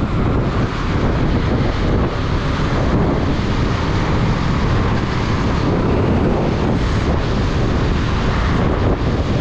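Steady wind buffeting on the microphone of a moving motorcycle, a dense rumbling rush with no breaks.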